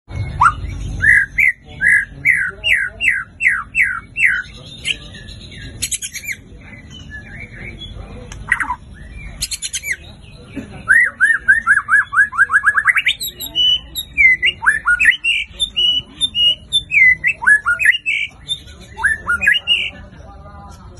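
White-rumped shama (murai batu) singing loudly: phrases of sharp, repeated notes sweeping up and down in pitch, with a fast run of rapid notes about halfway through.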